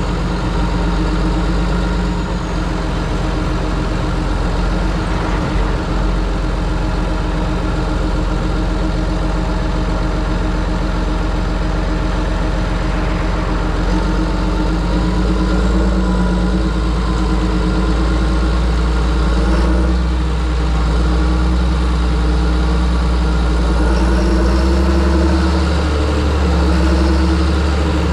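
John Deere 7730 tractor's six-cylinder diesel engine running steadily, a low drone with slight swells in level.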